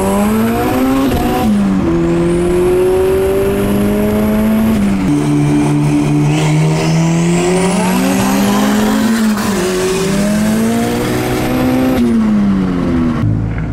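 Turbocharged Honda Civic accelerating hard through the gears, heard inside the cabin: the engine note climbs and drops at each of three upshifts, with a high turbo whistle rising alongside it. Near the end it lifts off and the engine winds down.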